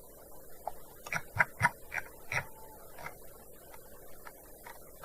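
Typing on a gaming keyboard: a quick run of keystrokes about a second in, then a few scattered key presses.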